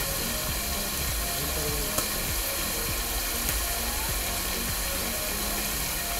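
Onion-tomato masala frying in a large cooking pot: a steady sizzling hiss, with a couple of light clicks.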